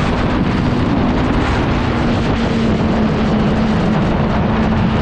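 Motorcycle ridden at speed: loud, steady wind noise buffeting the camera microphone, with a steady engine note underneath.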